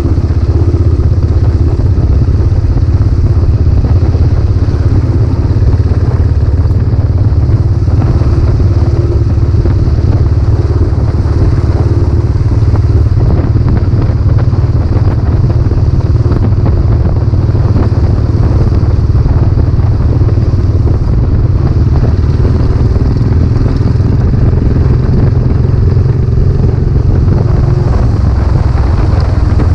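Royal Enfield Classic 500's air-cooled 500 cc single-cylinder four-stroke engine running through a new aftermarket silencer, held at a steady pace while riding.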